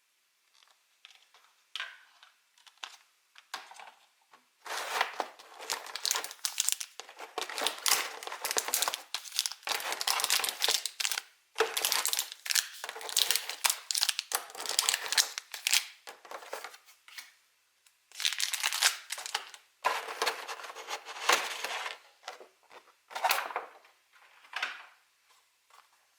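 Plastic packaging crinkling and tearing in long handling bursts with short pauses, after a few light taps and clicks near the start.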